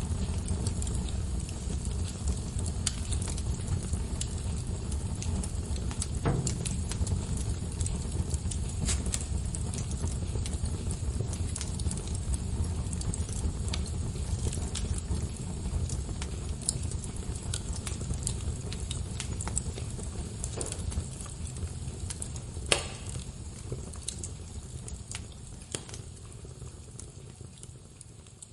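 Wood fire crackling: scattered sharp pops and ticks over a low, steady rumble of flame, with one louder pop near the end. The whole sound fades down over the last few seconds.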